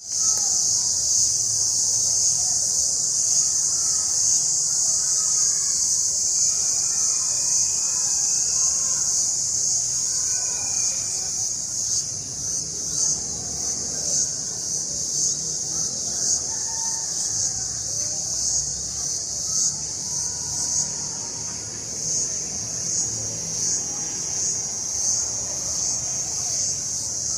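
A steady, high-pitched insect chorus, pulsing faintly in the second half, with faint bird chirps and whistles underneath.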